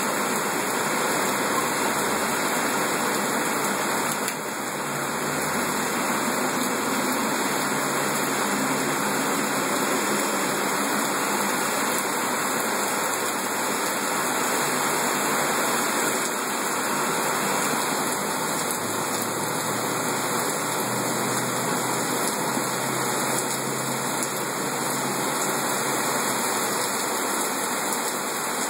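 Heavy rain pouring down in a steady, dense hiss, with a faint low hum underneath.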